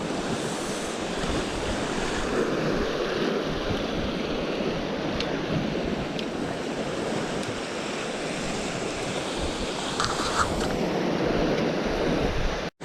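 Sea waves washing against a rocky shore, a steady wash with wind on the microphone and a few faint clicks; it cuts off suddenly near the end.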